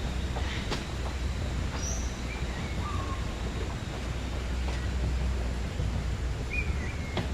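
Birds giving a few short chirps and calls over a steady low rumble of background noise, with a couple of sharp clicks.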